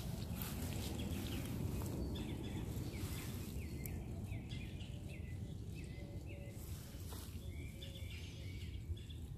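Small birds chirping over and over in short, quick notes, over a steady low background rumble.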